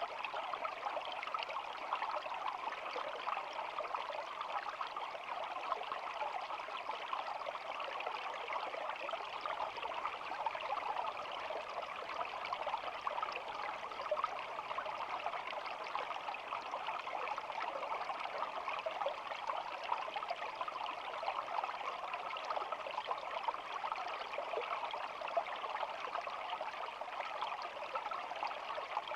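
Small shallow stream babbling and trickling steadily.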